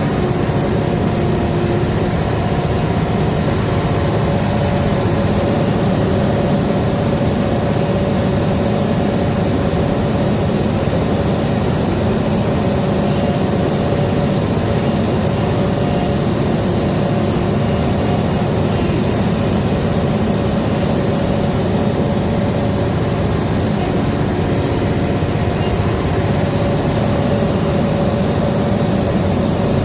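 Diesel engine of a Cat 395 hydraulic excavator running steadily at working speed while it loads rock trucks, with a constant whine over the engine drone.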